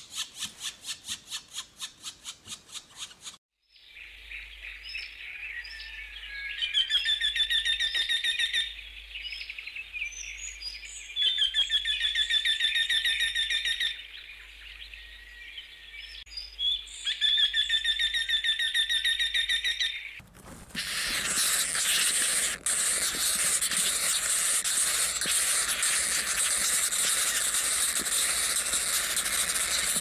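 Birdsong: a bird sings a chirping, warbling phrase three times over a steady low hum, after a fast even pulsing sound that stops abruptly. About two-thirds of the way in, a steady loud hiss takes over.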